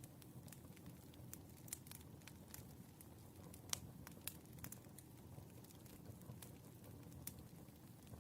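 Wood fire burning, faint: a low steady rumble under small, irregular crackles and pops of the burning logs, with one sharper pop a little past the middle.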